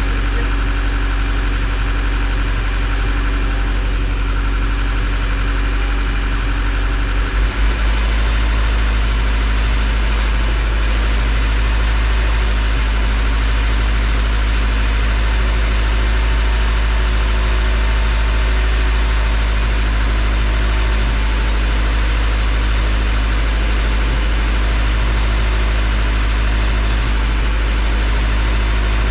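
Acura RSX race car's freshly rebuilt K24 four-cylinder engine idling steadily on its first startup after the rebuild, with a brief wobble in the note about seven seconds in.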